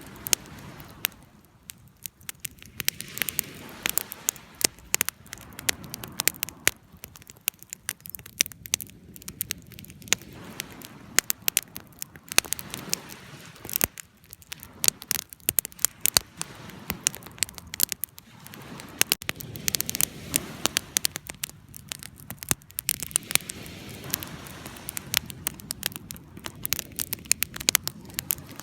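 Wood fire burning, with dense, irregular sharp crackles and pops over a steady low hiss.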